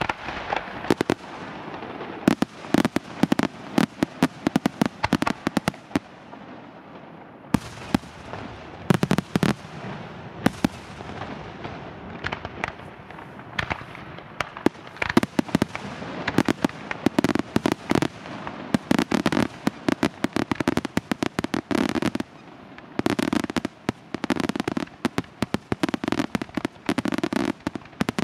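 Aerial fireworks display: a near-continuous run of sharp bangs from shell launches and bursts, coming faster and denser in the second half.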